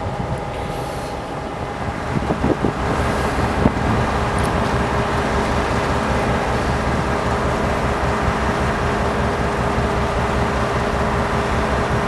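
EMD GP38 diesel locomotive's two-stroke V16 engine running, with steady tones over a low rumble, growing louder about two seconds in, with a few clanks.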